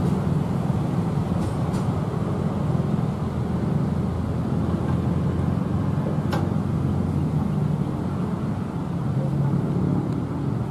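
Long train of tarpaulin-covered wagons rolling past at low speed, a steady low rumble of wheels on rail, with one sharp click about six seconds in.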